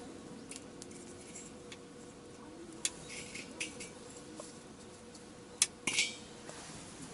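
A few sharp clicks and clinks of hard utensils or cookware being handled, the loudest near the middle and two close together near the end, over a faint steady hum.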